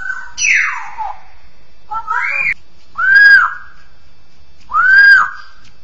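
Straw-headed bulbul (cucak rowo) singing loud, clear whistled phrases: a falling sweep near the start, a rising note about two seconds in, then two arched whistles that rise and fall, about two seconds apart.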